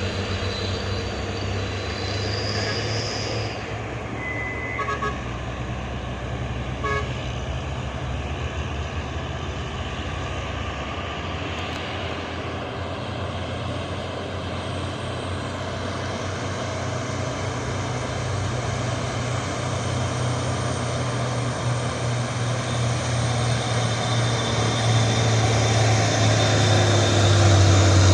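Heavy truck's diesel engine running steadily under load, growing louder toward the end as it draws nearer. A few brief high toots sound about five to seven seconds in.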